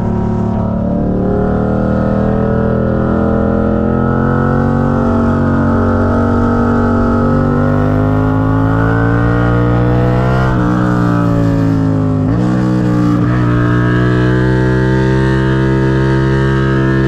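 Motorcycle engine pulling under steady acceleration, its pitch slowly rising. It dips sharply twice, about two-thirds of the way in and again a couple of seconds later, as gears are shifted up.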